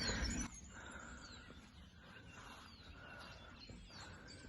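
Faint wild birdsong: scattered short, high chirps and twitters, with a brief burst of noise in the first half second.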